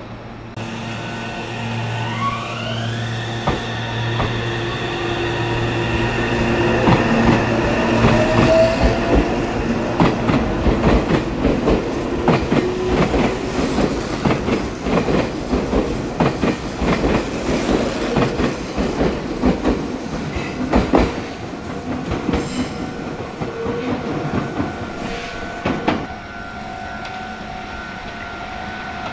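Meitetsu electric train moving off: its motor whine climbs in pitch as it gathers speed, then the wheels clatter over the rail joints as the cars roll past, loudest in the middle and easing off near the end.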